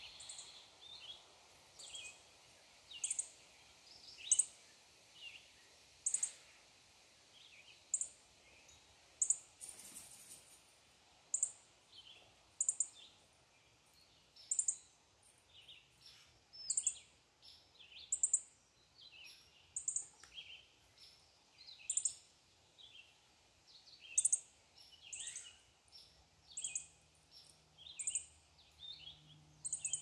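Small wild birds chirping with short, high calls, about one a second.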